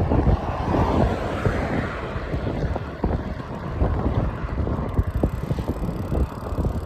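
Wind rumbling on the microphone over road traffic noise during a ride.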